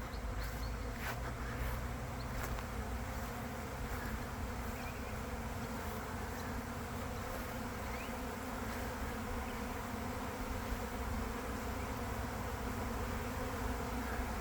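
Honeybee swarm in flight, a steady dense buzzing of thousands of bees as the swarm comes to rest on a tree.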